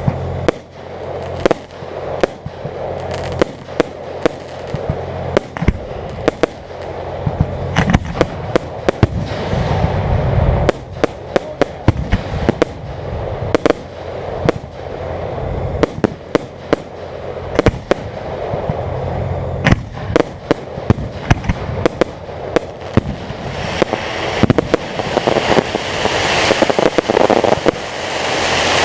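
Aerial fireworks going off in an irregular string of sharp bangs. Near the end a dense crackling sets in. A steady low hum runs underneath.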